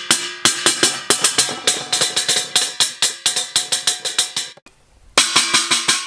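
Fast drumming with a stick on an upturned steel bowl, many strikes a second, each one ringing like metal. It breaks off briefly near the end, then starts again.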